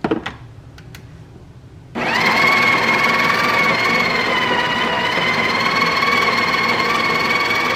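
A couple of short knocks, then about two seconds in the Breville Barista Express's built-in conical burr grinder starts up and runs steadily with a constant whine, grinding more coffee into the portafilter.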